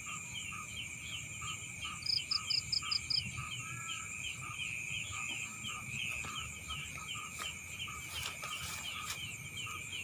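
Night chorus of insects and frogs: a steady high trill under rhythmic chirping about three times a second, with a quick run of six louder, higher chirps about two seconds in.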